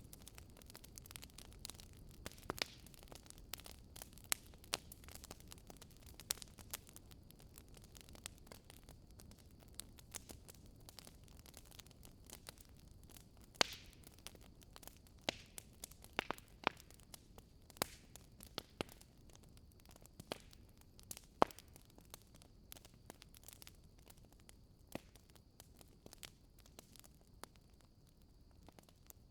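Wood fire burning in a fireplace: burning logs crackling and popping in sharp, irregular snaps over a faint low rumble, with a few louder pops about 13 and 21 seconds in.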